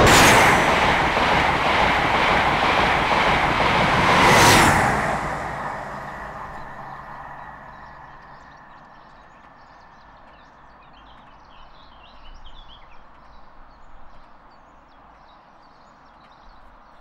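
Fast passenger train passing through a station at speed without stopping: a loud rush of noise for about five seconds, with a sharp whoosh as it arrives and another about four and a half seconds in, then dying away over the next few seconds.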